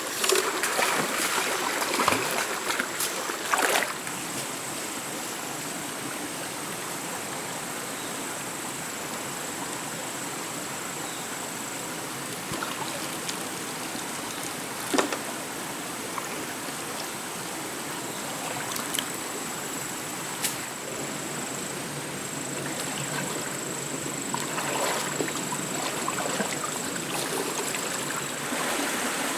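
Water of a stream flowing steadily, with a few sharp splashes or knocks in the first few seconds and another about halfway through, over a thin, steady high-pitched tone.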